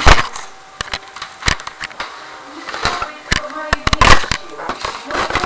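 Indistinct voices in a room, broken by a series of sharp knocks and clicks, the loudest right at the start.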